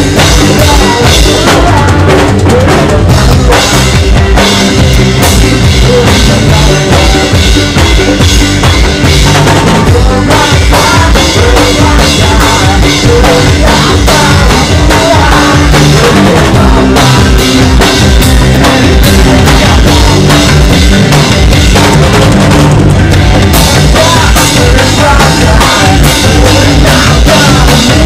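Band playing an instrumental passage of a reggae arrangement, with a drum kit prominent: kick drum and rimshots over bass and guitar. It is loud and unbroken throughout.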